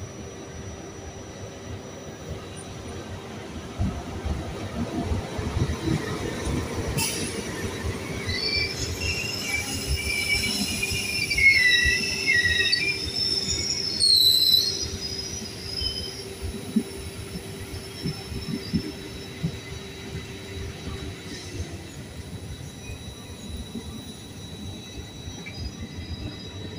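Locomotive-hauled Trenitalia passenger train rolling past, its wheels clacking over rail joints. Wheels squeal shrilly, with gliding notes, over several seconds around the middle; this is the loudest part. A steady hum runs underneath and stops with a slight drop in pitch near the end.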